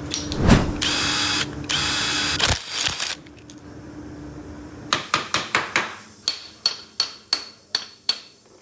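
A power tool runs in two short bursts of about a second each, followed by a series of about a dozen sharp clicks, roughly three a second, that grow fainter.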